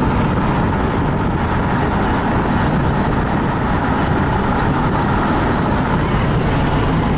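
Steady road noise of a car driving along: a dense, unbroken rumble of tyres and engine.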